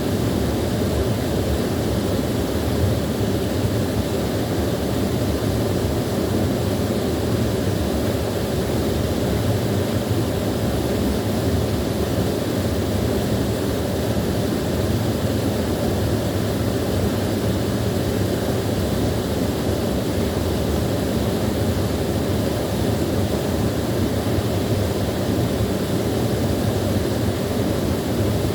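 Small waterfall pouring steadily: a constant, deep rushing of falling water that never changes.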